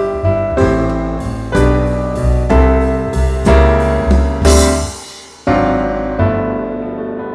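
Background piano music: struck notes and chords, each ringing and fading, with a short break about five seconds in before a final held chord dies away.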